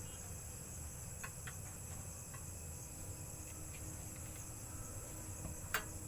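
Steady chorus of night crickets chirring, with a few light clicks and one sharp click or clink near the end.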